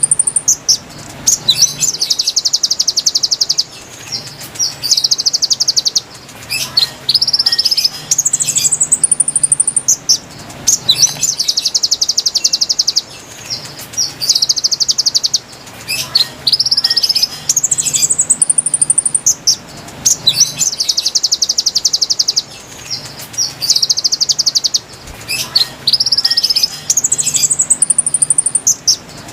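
Konin birdsong as a lure recording: high whistled notes sliding upward, then long, fast, buzzy trills. The same sequence of phrases repeats about every eight seconds, over a faint low hum.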